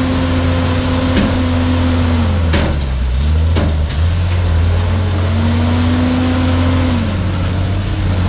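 Bulldozer's diesel engine running steadily, its pitch dipping a few seconds in and again near the end, with a couple of sharp knocks a few seconds in.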